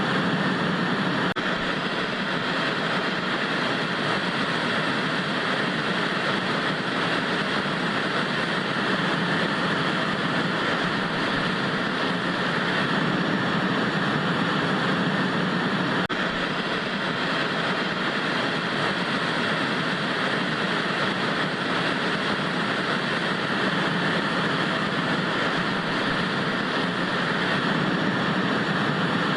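Steady analogue TV static hiss: even, unbroken white noise with a slight hum-like weight low down.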